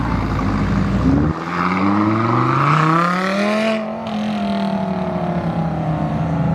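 A car's engine revving up as it accelerates past: a deep rumble cuts off just over a second in, then the engine note rises steadily for about two and a half seconds before levelling off and easing slightly.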